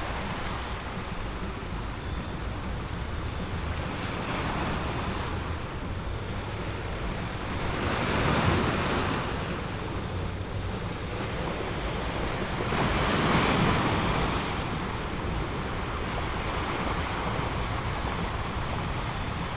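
Ocean surf: a steady wash of waves, with two waves breaking louder, about eight and thirteen seconds in.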